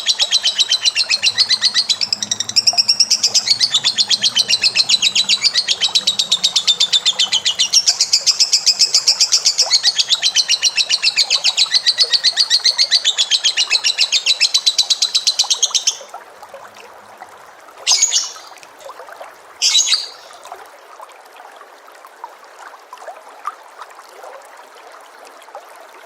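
A caged pet bird chattering in one long, fast, unbroken trill of high-pitched notes that stops about two-thirds of the way through, followed by two short calls. This is the kind of long rapid chatter used as training song for young songbirds.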